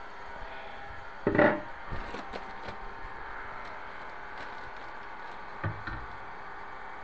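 Wooden knocks and clatter from a cabinet board being handled: one loud clatter about a second in, a few light clicks after it, and two smaller knocks near the end, over a steady hum.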